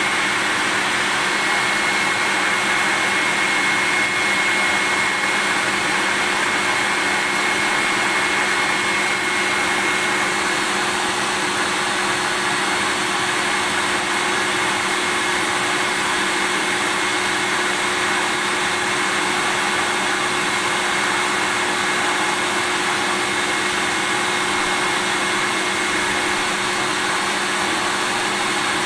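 Vacuum cleaner running steadily: an even, unbroken rushing noise with a low hum, and a faint high whine that fades out about ten seconds in.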